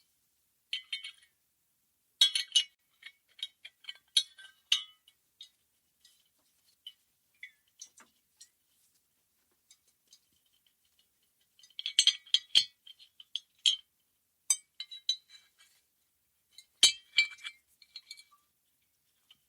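Two glass bottles clinking together, in bursts of quick ringing clinks with pauses between them: about a second in, from two to five seconds, from twelve to fourteen seconds, and again around seventeen seconds.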